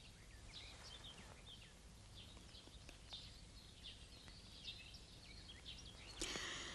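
Faint birdsong: many short, quick chirps and twitters over a low background hum, with a short rush of hissing noise near the end.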